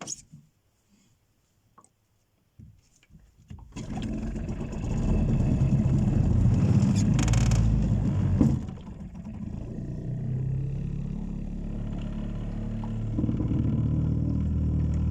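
A boat's outboard motor starts about four seconds in after near silence, then runs with a steady low rumble that briefly drops near the middle.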